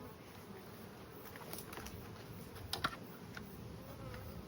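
Honeybee swarm buzzing steadily, with a few light clicks and one sharper knock just under three seconds in.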